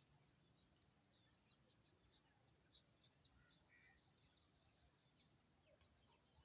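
Very faint chirping of many small birds, a scatter of short high calls with no pauses between them, over a near-silent outdoor background.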